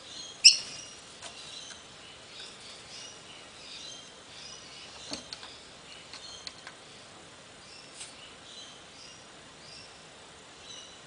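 A bird chirping in short, repeated high calls, with a sharp loud click about half a second in and a few fainter clicks later.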